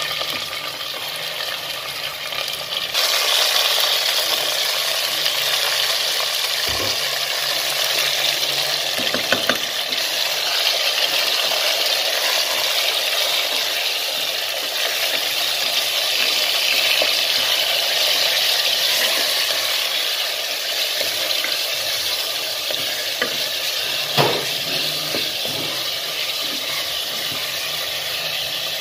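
Raw chicken pieces and sliced onions sizzling in hot oil in a metal pot while being stirred with a wooden spoon. The sizzle grows louder about three seconds in and stays steady, with a few sharp knocks along the way.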